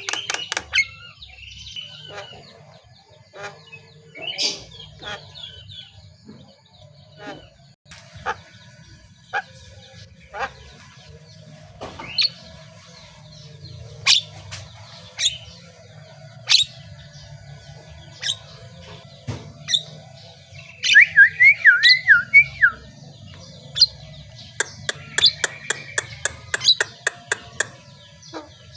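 Javan myna (jalak kebo) calling: scattered sharp chirps and clicks, a quick warbling phrase about three-quarters of the way in, and a fast run of repeated ticks, about five a second, near the end. A faint steady low hum sits underneath.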